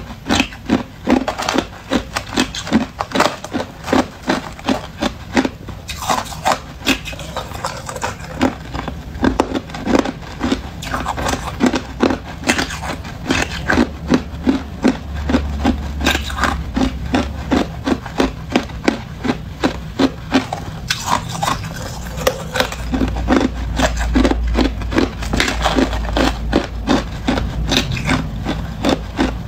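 Hard, clear ice being crunched between the teeth close to the microphone: a steady chewing rhythm of sharp crunches, about three a second.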